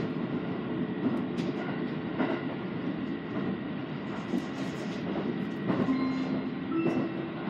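Interior running noise of an Aichi Loop Railway 2000 series electric train: a steady rumble with faint regular clicks of the wheels over the rails. A few short pitched tones come in near the end.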